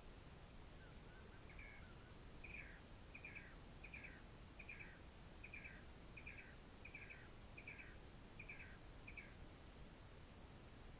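A bird calling a series of about eleven short, downward-slurred double notes, evenly spaced about two-thirds of a second apart, starting a second or two in and stopping a couple of seconds before the end.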